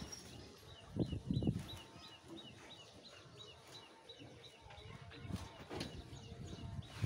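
A small bird chirping over and over, about four short chirps a second. A few louder dull thumps come about a second in and again after five seconds.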